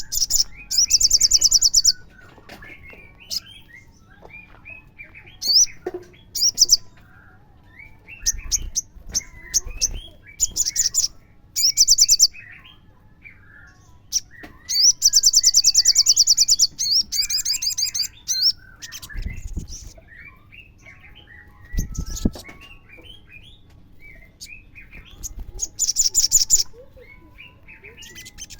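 Olive-backed sunbird singing: repeated bursts of rapid, very high trills, each lasting one to three seconds, with softer quick chirps between them. Two dull low thumps come in the second half.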